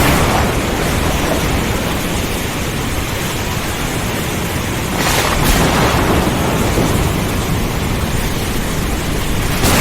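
Heavy rain falling steadily under rumbling thunder, the rumble swelling louder about halfway through and again near the end.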